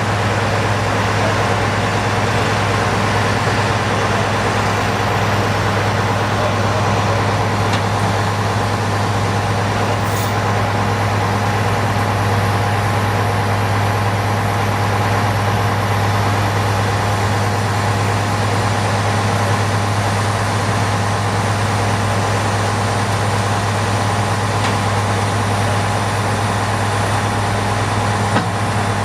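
Heavy diesel engine of a large crane running steadily, a constant low drone with a hum that hardly changes.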